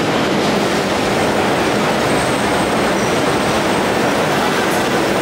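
Manila LRT Line 1 light-rail train arriving at the station platform: a steady rush and rumble of the cars running in, with a faint high wheel squeal.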